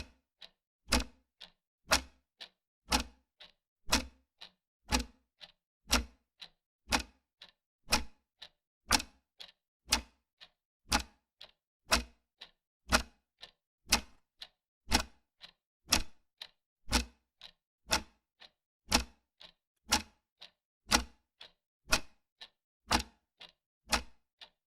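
Clock ticking steadily, a loud tick about once a second with a softer tick between each, stopping shortly before the end.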